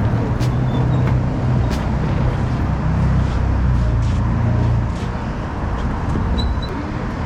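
A motor vehicle's engine running, with road and traffic noise; the low engine hum eases off about five seconds in.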